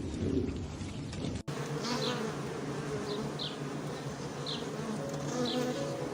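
Steady insect buzzing drone. After a sudden cut, short high chirps come roughly once a second over it.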